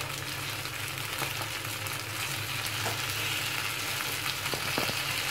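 Taro root pieces sizzling in shallow oil in a nonstick frying pan while a wooden spatula turns them over, with a few light taps and scrapes of the spatula against the pan.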